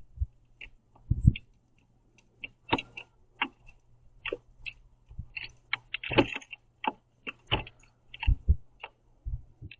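Birds feeding on a platform bird feeder: irregular sharp ticks and taps of pecking beaks and seeds, about one or two a second, with a few dull thumps.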